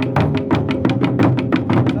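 Japanese taiko drums played in a fast, even rhythm, several strikes a second, with the low ring of the drum heads sustained under the strokes.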